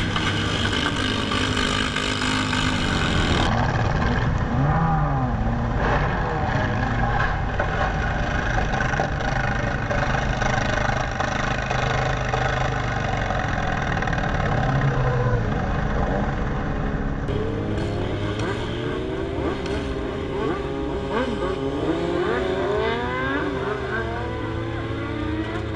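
Motorcycle and road traffic engine noise, with engines revving and their pitch sliding up and down. The sound changes character abruptly twice, and more rising and falling engine tones overlap in the later part.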